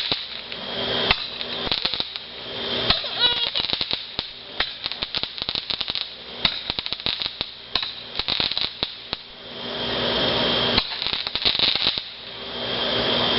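Consumer fireworks crackling with rapid, irregular pops. About ten seconds in a steady hiss takes over, breaks off briefly, then comes back near the end.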